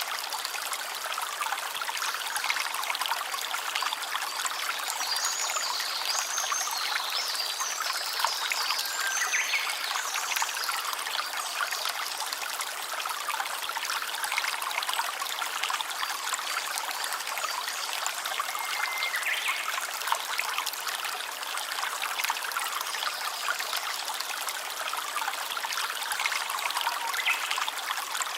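A stream of water trickling and babbling steadily.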